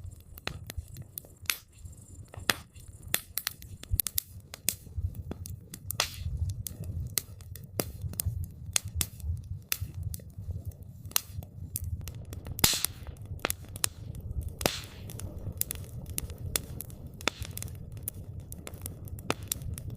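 Wood campfire crackling, with irregular sharp pops and snaps several times a second over a low steady rumble; one louder pop comes a little past halfway.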